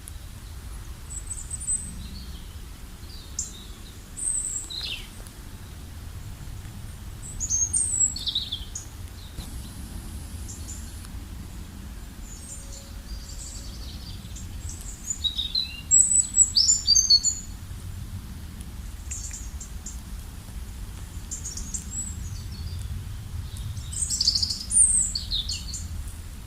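High-pitched bird chirps and short whistled calls in scattered bouts, the busiest and loudest about two-thirds of the way through, over a steady low rumble.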